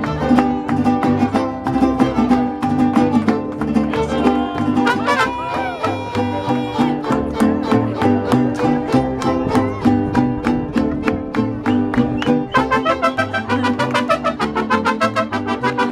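Mariachi band playing live: strummed guitars over a steady bass line, with the strumming turning quicker and busier near the end.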